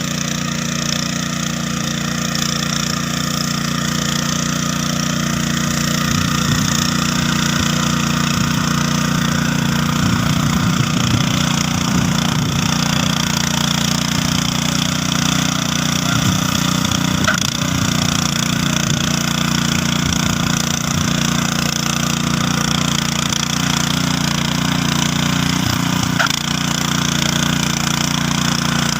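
Tractor engine running steadily while cultivating soil.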